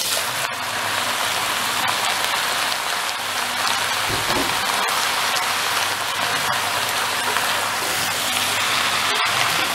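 Chicken and vegetables sizzling steadily in a hot wok as boiled spaghetti is piled in on top, with a brief low knock about four seconds in.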